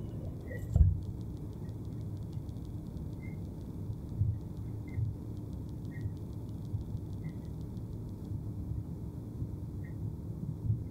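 Passenger train running along the track, heard from inside the carriage as a steady low rumble. A few short knocks come from the running gear, the loudest about a second in.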